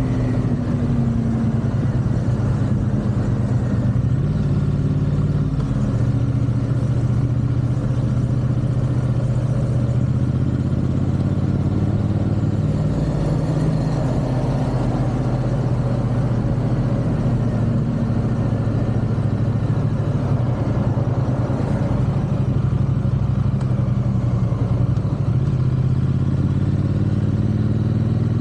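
Triumph 270° parallel-twin motorcycle engine cruising under steady throttle, its note easing down near the start and picking up again near the end, with wind and road noise.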